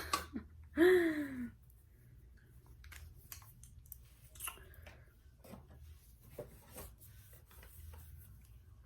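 A short wordless vocal hum falling in pitch about a second in, then faint, scattered light scratching and clicking from makeup being handled and applied.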